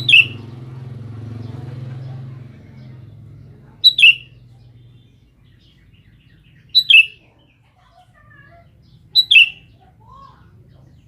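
Sooty-headed bulbul calling: four loud, short two-note calls, each dropping in pitch, about every three seconds. A low rumble fades away in the first couple of seconds.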